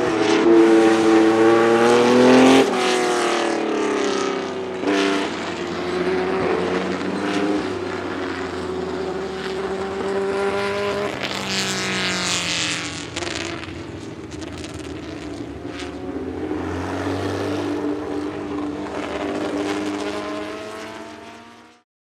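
1967 Porsche 910's 2-litre flat-six racing engine at high revs, pitch rising and then dropping sharply at each upshift, growing fainter as the car draws away. The sound cuts off abruptly near the end.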